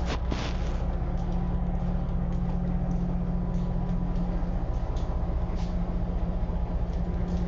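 Passenger boat's engine running with a steady low drone under way, with a few faint clicks.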